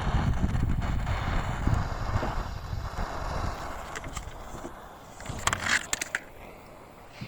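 Handheld torch flame rushing as it reheats a melted-plastic weld over a crack in a plastic boat hull, dying away over the first three to four seconds. A few short scrapes follow about five and a half seconds in.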